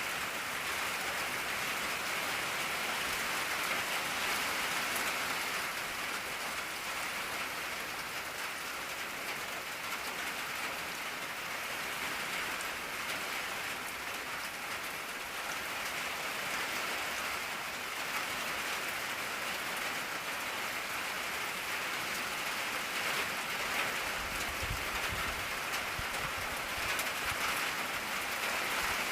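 Steady rain drumming on an old tin roof: a dense, even patter of drops on corrugated metal, with a faint low rumble near the end.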